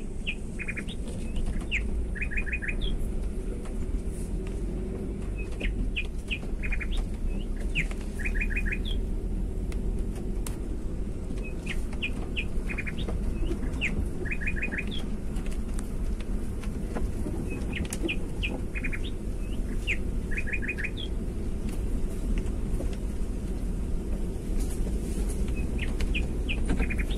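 A songbird repeating the same short phrase of chirping notes, each ending in a quick run of four notes, about every six seconds, over a steady low rumble.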